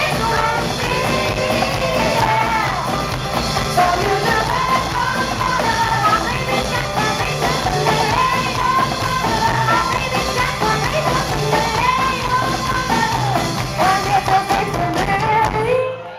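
Live band music with female singing; the music stops abruptly at the very end.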